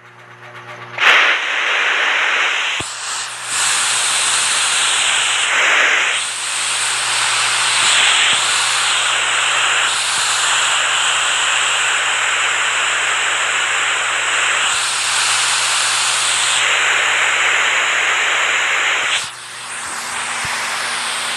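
Rushing water, a steady loud hiss of spray that starts about a second in after a brief drop. Near the end it dips and gives way to a duller steady rush.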